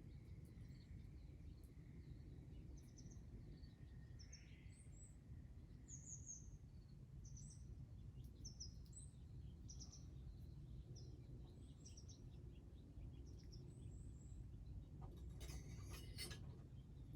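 Faint, scattered high chirps of small birds over a steady low background rumble, with a brief cluster of clicks near the end.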